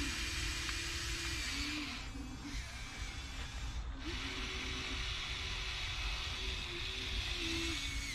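Radio-controlled excavator's electric motors whining, the pitch of the whine stepping up and down and dropping out briefly as different movements are worked, over a low rumble.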